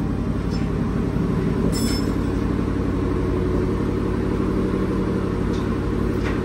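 An engine running steadily with an even, low hum, and a short click about two seconds in.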